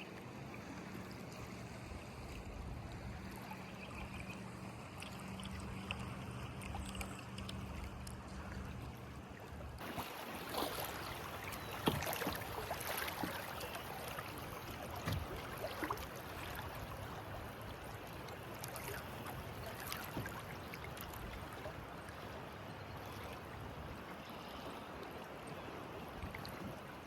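Fast, high river water rushing and splashing around a kayak. A faint low hum runs under it for the first ten seconds. After that the water gets louder and splashier, with scattered sharp splashes.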